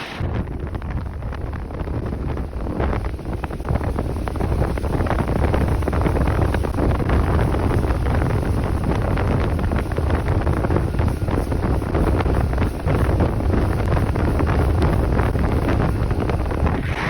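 Wind buffeting the microphone, a heavy low rumble that swells and dips.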